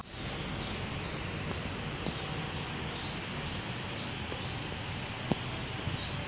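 Outdoor ambience: a bird repeats a short, high, falling chirp about twice a second over a steady background hiss. A single sharp click comes about five seconds in.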